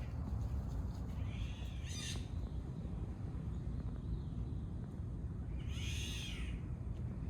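Two drawn-out, high-pitched animal calls, each about a second long, one near the start and one about two-thirds of the way through, over a steady low rumble.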